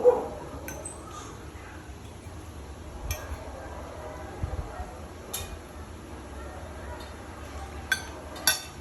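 A few light clinks of a utensil against a plate or bowl, single sharp ticks a couple of seconds apart, the loudest near the end.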